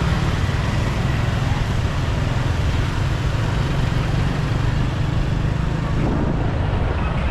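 Steady rumble of riding on a motorbike through city traffic: engine and road noise with a heavy low hum, unbroken throughout.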